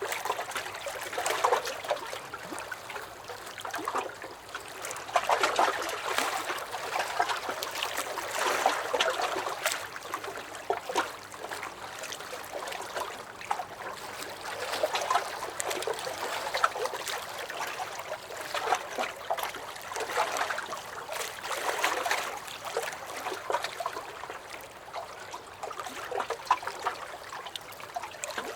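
Small lake waves lapping and slapping against a wooden dock, in irregular swells every few seconds with splashy trickles and gurgles between them.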